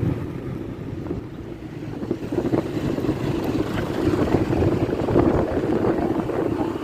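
Bus engine running as a bus passes, dipping at first and then growing louder from about two seconds in.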